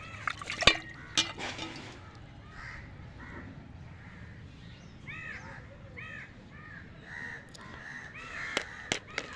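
Birds calling in a series of short repeated calls, with a few sharp clicks near the start and again near the end, the loudest click just under a second in.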